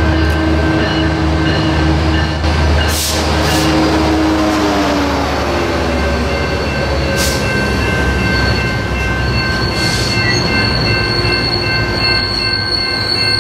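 Metrolink train led by an EMD F-125 diesel locomotive passing: a deep engine rumble with a droning pitch that falls away a few seconds in. After that come steady high-pitched squeals and a few short hisses.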